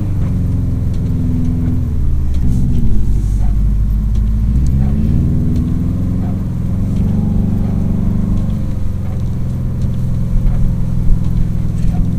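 Subaru WRX STi's turbocharged flat-four engine running while driving in snow, under changing throttle. Its note falls about two seconds in, climbs again a couple of seconds later, then holds fairly steady.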